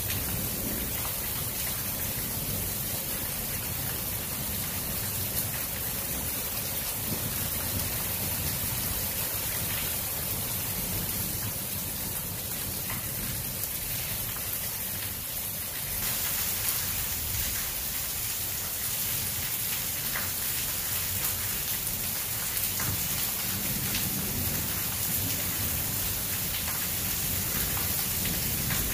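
Steady rain falling on a concrete patio and garden trees during a thunderstorm, getting heavier a little past halfway.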